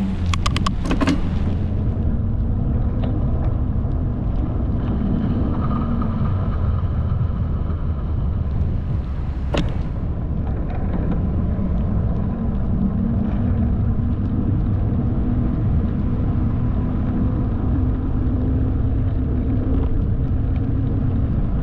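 Bicycle being ridden along a paved path: a steady low rumble of wind on the microphone and tyres rolling. There is a quick run of clicks about a second in and a single sharp click near the middle.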